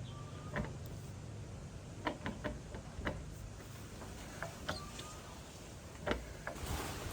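Irregular light clicks and taps, about nine in all, as of hand tools and engine parts being handled during repair work, over a low steady hum.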